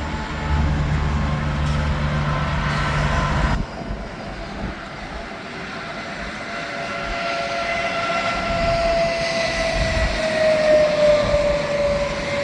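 Semi trucks passing on an interstate highway: a steady low hum that cuts off abruptly a few seconds in, then a rising rush of tyre and engine noise with a whine sliding slowly down in pitch as another truck goes by.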